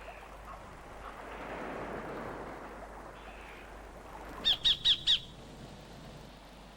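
Sacred kingfisher calling: four quick, sharp, harsh notes in a row, a little past halfway through, over a soft rushing background that swells and fades.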